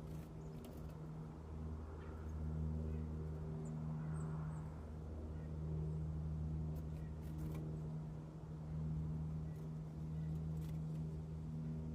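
A steady low motor hum, with a few faint high chirps about four seconds in and scattered light clicks.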